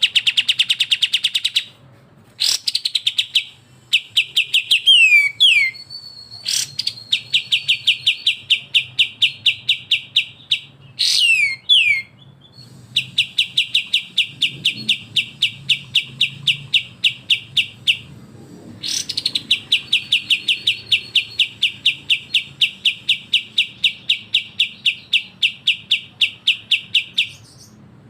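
Songbird song: long rapid trains of sharp, repeated notes, about eight a second, each train running several seconds, with a few quick downward-sliding notes in between. This is the fast rattling 'besetan' phrase of kapas tembak or cucak jenggot song.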